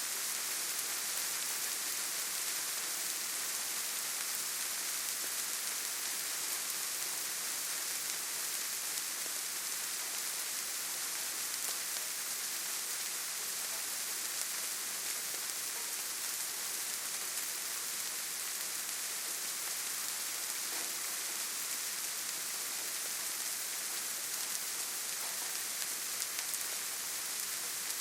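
Steady rain falling on leaves and forest ground, an even hiss with faint scattered drop ticks.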